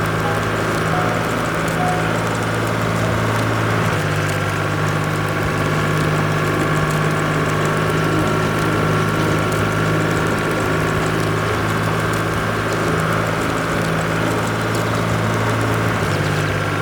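Cartoon farm-vehicle engine sound effect running steadily at idle, a constant low hum.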